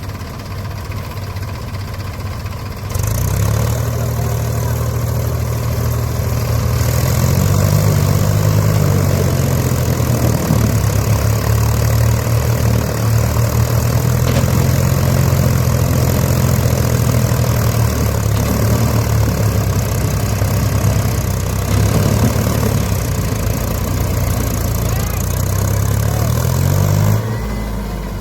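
Tractor engine running. About three seconds in it jumps from a low steady idle to a much louder, higher-revving run, rises further a few seconds later and holds steady. Near the end it falls back to idle.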